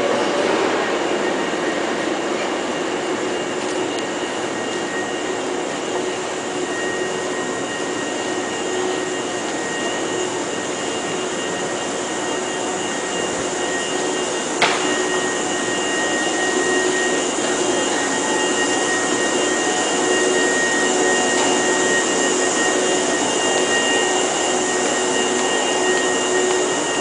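Hankyu 5100 series electric train standing at the platform with its onboard equipment running: a steady whirring hum with a few constant tones, and one sharp click about halfway through.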